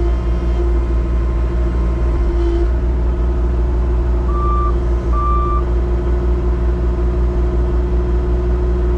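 Heavy engine running steadily. A backup alarm beeps twice, short high beeps about four and five seconds in.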